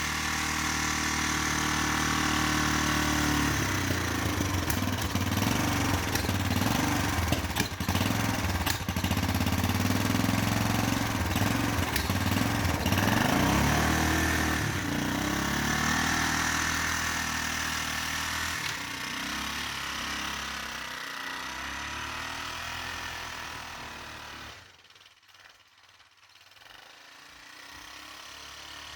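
ATV (four-wheeler) engine running and revving up under load, with a few sharp knocks. Its sound fades and drops out almost completely about three-quarters of the way through, then comes back faintly.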